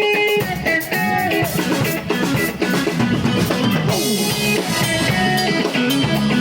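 Live band playing, with a drum kit and guitar.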